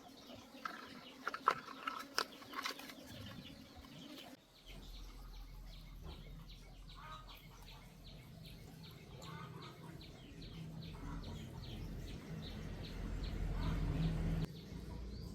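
A few sharp metallic knocks, then a booster water pump's electric motor starts up with a steady low hum about four and a half seconds in, growing louder before dropping off shortly before the end.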